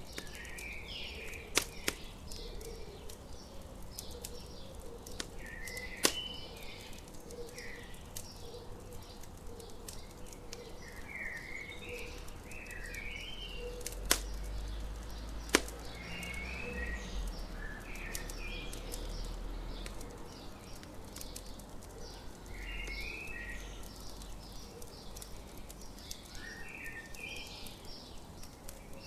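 Campfire crackling steadily, with about five sharp, louder pops, under a songbird repeating short chirping phrases every couple of seconds.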